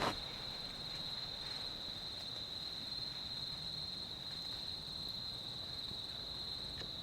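Insects, most likely crickets, chirring without a break in one steady high-pitched tone. There is a short sharp knock right at the start, and a few faint clicks follow.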